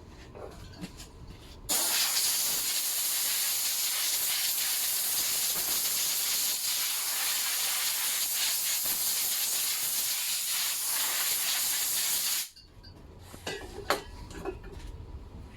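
Aerosol degreaser sprayed onto an engine camshaft in one continuous hiss of about ten seconds, starting about two seconds in and cutting off abruptly, with light handling clicks before and after.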